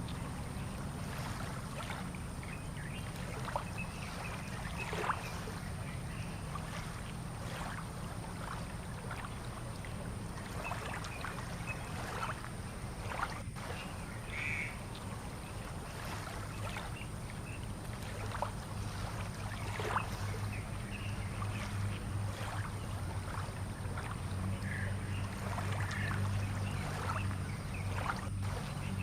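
Fishing-harbour ambience: a low boat-engine hum that grows louder in the second half, with scattered short bird calls over it.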